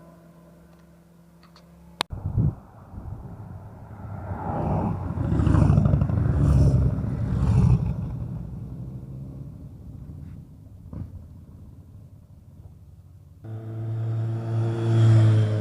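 A motorcycle passing: its engine swells from about four seconds in, is loudest for a few seconds, then fades away. Near the end another motorcycle engine comes in abruptly with a steady low note.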